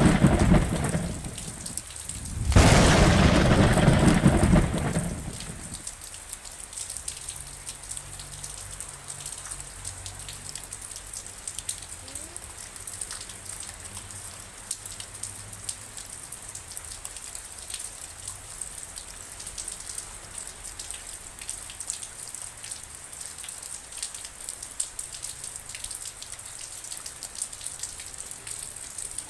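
Steady rain with scattered drops ticking, broken at the start by two loud rolls of thunder. The second roll comes about two seconds in and dies away by about five seconds, leaving the rain alone.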